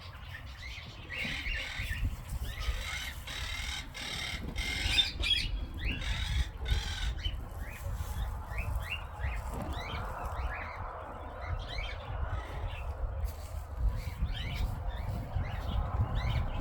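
Birds calling: harsh squawking calls in the first half, then a string of short rising chirps, over a steady low rumble.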